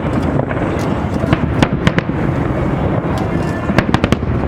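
Fireworks display going off: a steady rumble of bursts with many sharp cracks and pops at irregular spacing, bunched in quick clusters.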